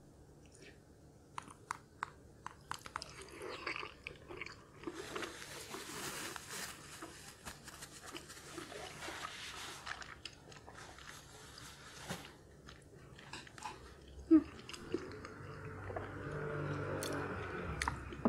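A person chewing a boiled pork-and-chive dumpling: wet mouth sounds with scattered lip and tongue clicks, densest in the middle. There is one sharp click a little past two-thirds of the way through.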